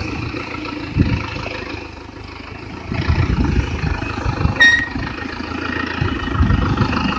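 Vehicle engine running with an uneven rumble that grows louder about three seconds in, and one short bright ding about halfway through.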